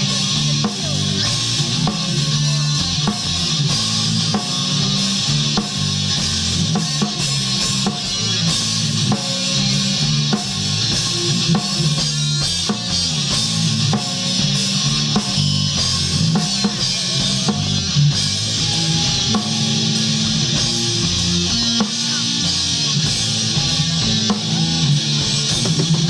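A live rock band playing: electric guitar, bass guitar and a drum kit with a steady beat and constant cymbals.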